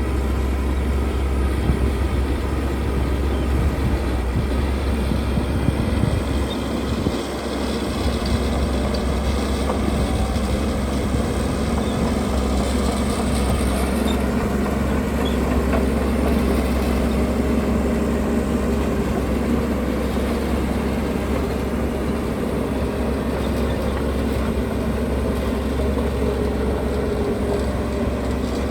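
Heavy diesel construction machinery running steadily under work, with a strong low engine drone and a brief dip about seven seconds in.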